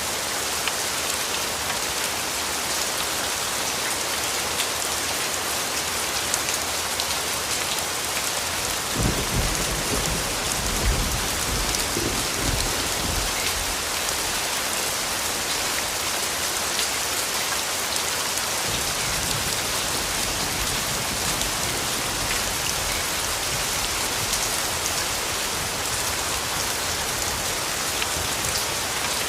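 Steady rain falling, with a roll of distant thunder rumbling low about nine seconds in for several seconds and a fainter rumble later on.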